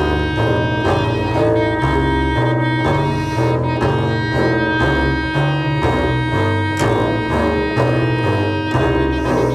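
Contemporary experimental chamber music for double bass and clarinets. Low notes are played in fast, even, repeated attacks, about four a second, with the low pitch shifting every second or so, under several steady held higher tones.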